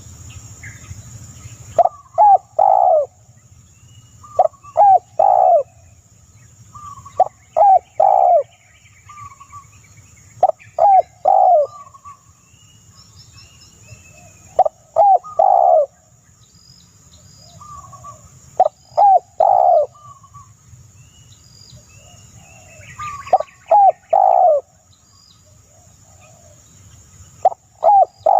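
A bird calling loudly and repeatedly. Each phrase is a few sharp short notes ending in a longer falling note, and the phrase comes back about every three to four seconds, with fainter high chirps from other birds in between.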